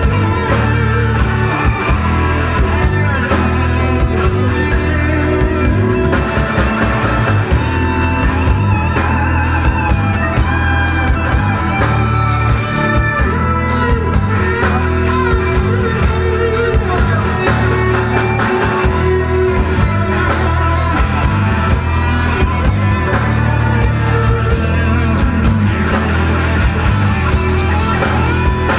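Live rock band playing an instrumental passage with electric guitar lines over bass and a steady drum beat.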